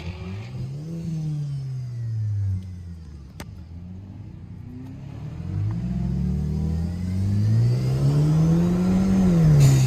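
Performance car engine accelerating: its pitch climbs and then falls, once briefly about a second in and again in a longer, louder sweep near the end.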